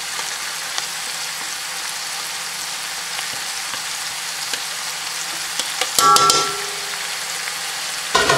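Chicken pieces in a thick yogurt marinade sizzling steadily on high heat over onion rings, capsicum and green chillies in butter and oil. A short ringing clatter comes about six seconds in and a knock near the end.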